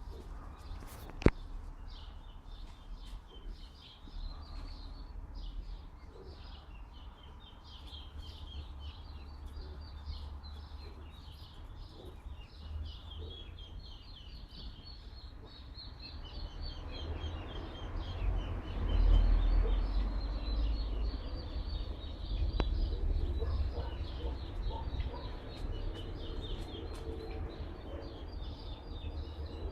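Small birds chirping in a continuous run of quick, repeated high notes, over a low wind rumble on the microphone that grows stronger about two-thirds of the way through. One sharp click just over a second in.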